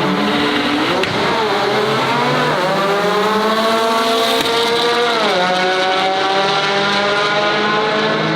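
Volkswagen car engine accelerating hard, its pitch climbing steadily with three short drops, about one, two and a half and five seconds in, where it changes up a gear.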